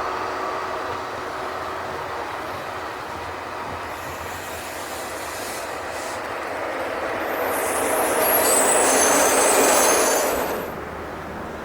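Train rolling slowly past on the rails, with high-pitched wheel squeal building about two-thirds of the way in as it gets loudest, then dropping off sharply near the end.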